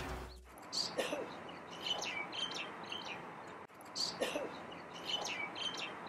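Small songbirds chirping in park trees: short, high calls come a few at a time, irregularly, over a soft outdoor background. Background music fades out in the first half second.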